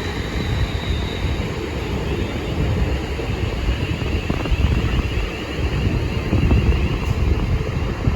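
Wind buffeting the microphone, a steady low rumbling noise, with a faint high tone fading in the first second.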